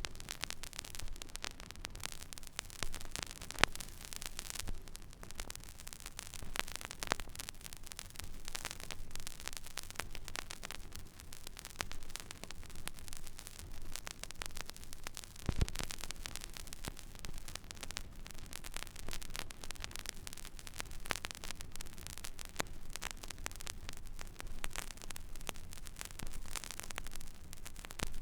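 Record-player stylus riding an empty vinyl groove: steady surface hiss with a low hum, scattered irregular crackles and pops, a couple of them louder than the rest.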